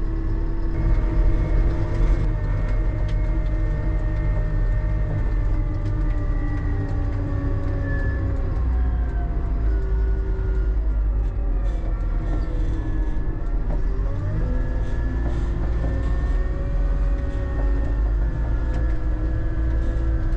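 Tractor driving along a road, heard from inside the cab: a steady low engine rumble under a whine of several tones that drift slowly up and down in pitch.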